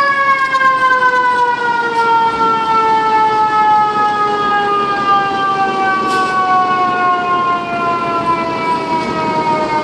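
Fire engine's mechanical siren, of the Federal Q type, coasting down after a quick wind-up, its pitch sinking slowly and steadily as the rotor spins down.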